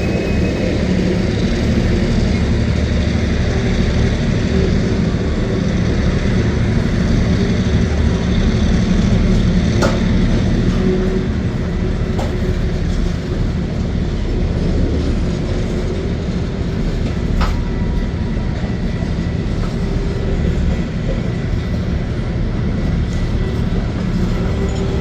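Train cars rolling past with a steady rumble of wheels on the rails, a faint thin squeal from the wheels, and two sharp clanks, one about ten seconds in and one near seventeen seconds.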